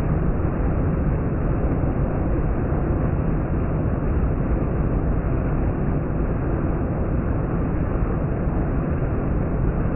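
Heavy rain falling, a steady even rush with a deep rumble.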